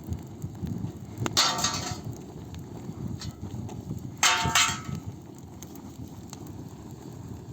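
Campfire burning with a low steady rumble and scattered crackles of burning wood. Twice, about a second in and again past the middle, a brief louder sound stands out above the fire.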